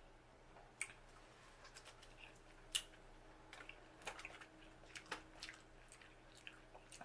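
Quiet, wet eating sounds of a person chewing seafood boil: scattered soft smacks and mouth clicks, the sharpest about three seconds in.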